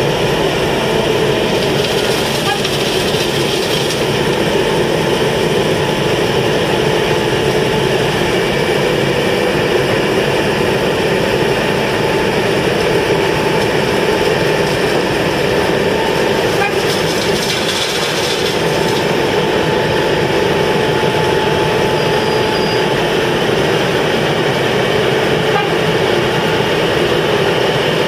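Heavy asphalt-paving machinery running steadily, a loud continuous engine and mechanical noise.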